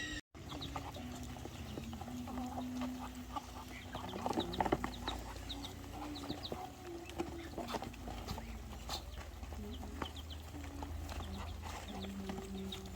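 Chickens clucking, with drawn-out low calls recurring throughout and many short, high chirps scattered among them.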